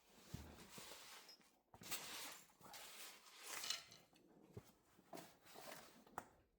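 Faint rustling and swishing handling noises from cleaning up by hand, with a few light knocks.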